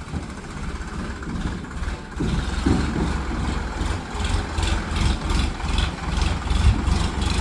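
Tractor engine running steadily with a low rumble, getting louder about two seconds in.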